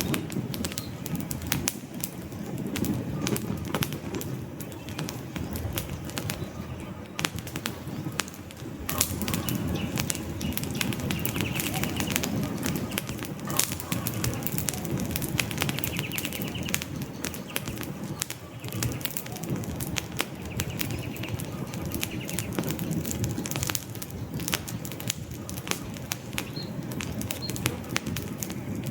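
Wood campfire burning, a steady low rush of flame with frequent sharp crackles and pops, and faint bird calls now and then behind it.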